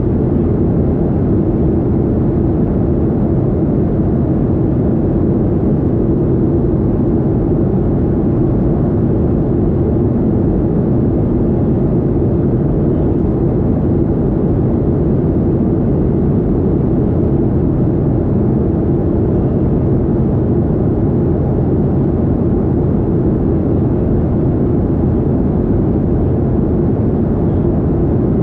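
Steady drone of a Boeing 737-800's CFM56 jet engines and airflow heard inside the passenger cabin in flight, low and even with a faint steady hum, no changes in level.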